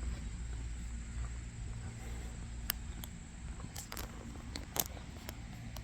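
Outdoor walking sounds: a low steady rumble with a handful of sharp clicks in the second half, from footsteps and the handheld camera being moved.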